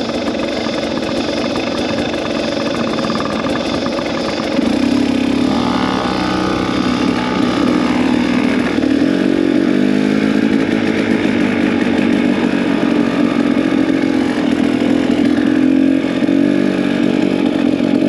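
Two-stroke dirt bike engine running, stepping up louder about four and a half seconds in and then holding a steady note.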